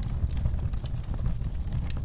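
Wood fire burning in a fireplace: a few sharp crackles and pops over a steady low rumble of the flames.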